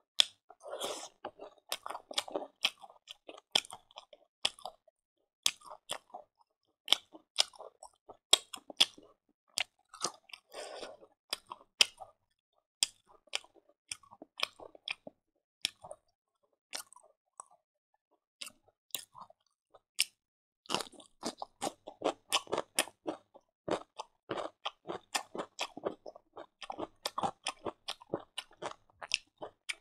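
Close-miked chewing of crunchy fried silkworms: sharp, irregular crunches and crackles, thinning out for a few seconds past the middle before picking up again.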